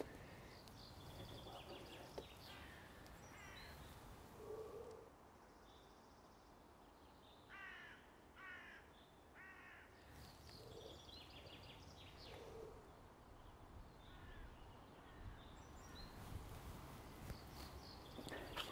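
Faint outdoor ambience with scattered bird calls, including a run of three calls about halfway through.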